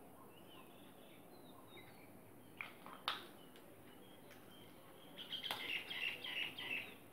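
Faint chirping of small birds, with a sharp click about three seconds in and a busier stretch of twittering in the last two seconds.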